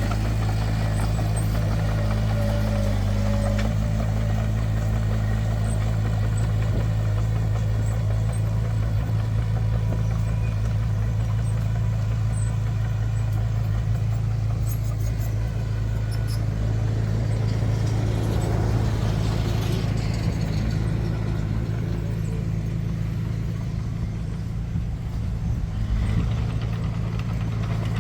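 Large diesel engine of heavy earthmoving machinery running steadily at a constant speed, with a deep, even hum.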